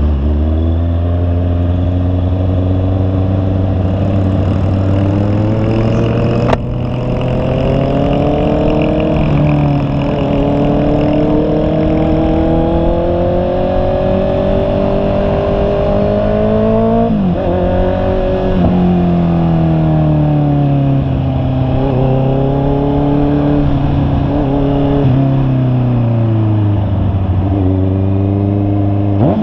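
Honda CB650R's inline-four engine under way, its pitch climbing slowly with speed, dropping sharply about halfway through, then sinking gradually before rising again near the end. A single sharp click about six and a half seconds in.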